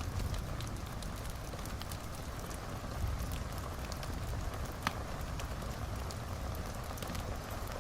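Wood fire burning in a fireplace: a steady low rumble with frequent small crackles and one louder pop about five seconds in.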